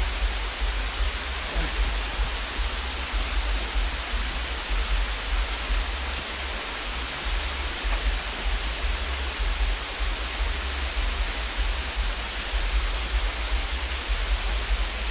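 Steady rushing of a waterfall, an even hiss of falling water, with a fluttering low rumble underneath.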